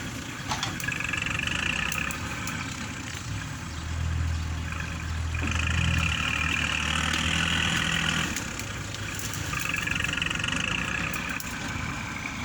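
Kubota tractor's diesel engine running while working the soil, building three times under load, each time with a higher whine over the engine. The longest and strongest surge comes midway.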